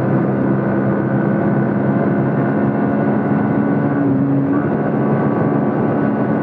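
Motorcycle engine running at a steady speed, a constant hum that holds one pitch.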